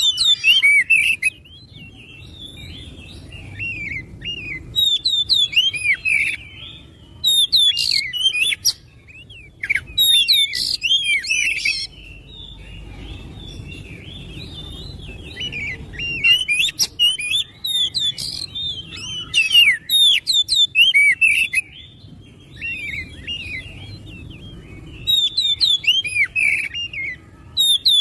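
Oriental magpie-robin (kacer) singing: bursts of rapid, varied whistled notes every few seconds, over a faint low rumble.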